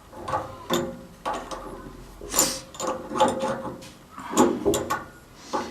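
Irregular clacks, knocks and scrapes of metal parts and hand tools being handled while a gas water heater's burner assembly is put back together, the loudest about halfway through and again near the end.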